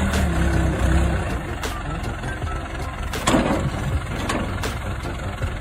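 An engine running with a steady low hum, strongest for about the first second, with a few sharp knocks, the loudest a little past halfway.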